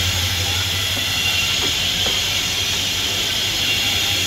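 Steady rolling noise of a moving passenger train heard from an open coach window: an even hiss of wheels on rails and rushing air over a low hum, with no clear beat.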